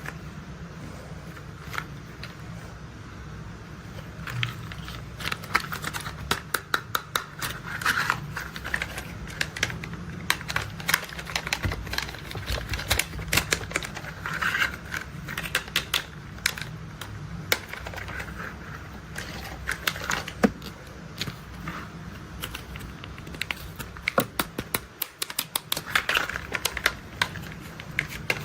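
Plastic toy construction vehicles being handled and tapped: rapid, irregular clicks and taps, sparse at first and coming thick and fast from about four seconds in, over a steady low hum.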